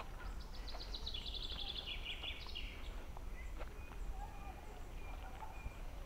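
Songbird singing a fast trill of repeated notes that steps down in pitch over about two and a half seconds, followed by scattered shorter chirps and whistles from birds, over a steady low rumble.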